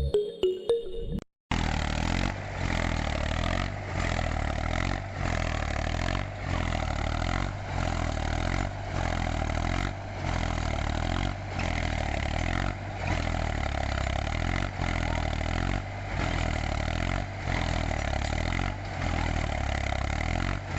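A motor running steadily, its sound dipping briefly at a regular pace of about once every second and a quarter.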